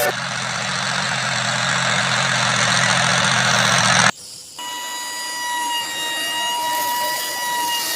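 A motor running steadily with a low hum and hiss. It cuts off abruptly about four seconds in, and after a brief drop a steady whine made of several even high tones follows.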